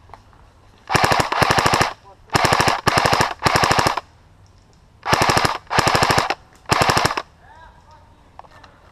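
Airsoft electric rifle firing about seven short full-auto bursts, each roughly half a second of rapid, evenly spaced shots, spread over some six seconds with brief pauses between them.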